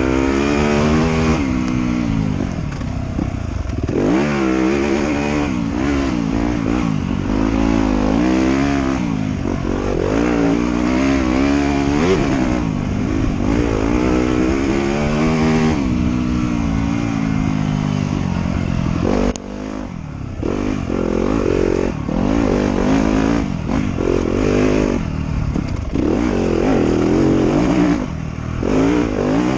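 Off-road motorcycle engine revving up and down over and over as it is ridden along a trail, with a short drop in engine sound about 19 seconds in and again near the end.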